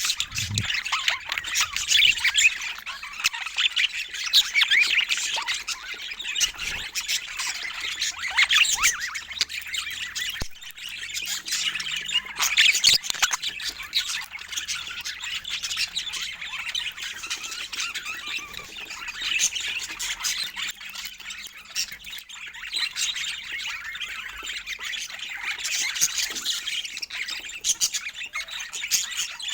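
Several budgerigars chattering continuously, a dense stream of quick chirps, warbles and squawks.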